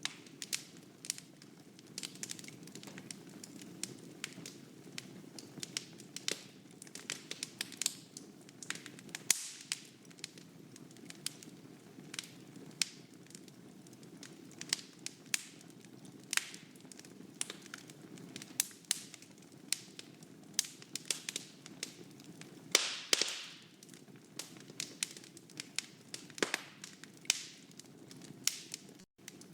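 Wood fire in a fireplace crackling, with irregular sharp pops and snaps over a steady low rustle of the flames. A longer, louder hiss comes about three quarters of the way through, and the sound drops out for an instant near the end.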